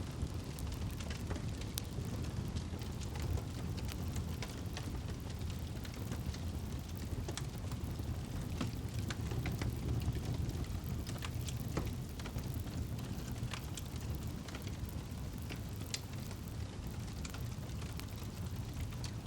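Campfire burning: a steady low rush of flames with irregular sharp crackles and pops from the burning wood.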